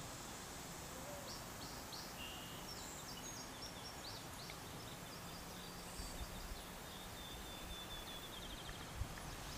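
Birds chirping, short high calls over a steady background hiss, with a brief rapid trill near the end.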